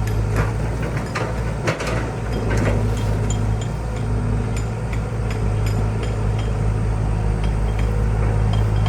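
An engine running at a steady speed, with several sharp knocks and clanks in the first three seconds.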